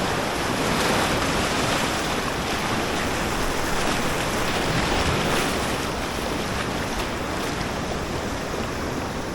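Steady rush of a fast river current flowing around a kayak, a dense even wash of moving water.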